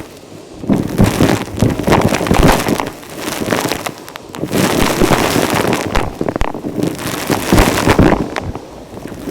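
Vacuum cleaner sucking up crunchy dirt and grit, a dense crackle of debris rattling into the nozzle, coming in several bursts of a second or two each as the nozzle passes over it.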